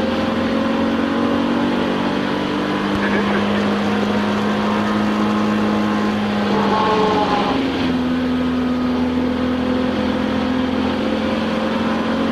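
Touring race car's engine heard from inside the cockpit, pulling hard with the revs climbing steadily. About two-thirds of the way through, the revs rise quickly and then drop at a gear change before climbing again.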